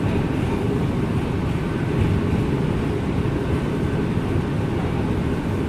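Bombardier R179 subway car running between stations: a steady, even rumble of wheels on rails and car running gear, with a faint thin steady whine above it.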